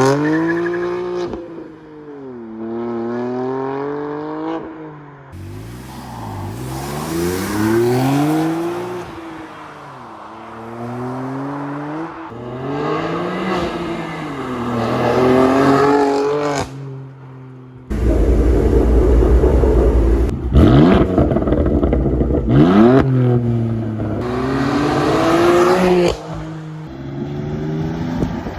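BMW M2 CS's S55 twin-turbo straight-six through a Dinan X pipe, its exhaust note rising and falling as the engine is revved and driven, over several short clips. About eighteen seconds in comes a louder, rougher, deeper stretch lasting several seconds.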